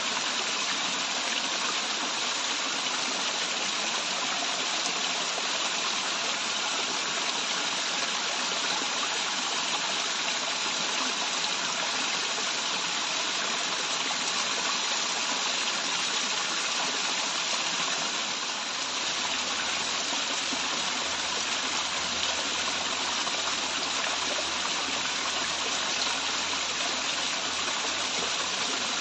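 Waterfall running water: a steady, unbroken rush of falling and flowing water.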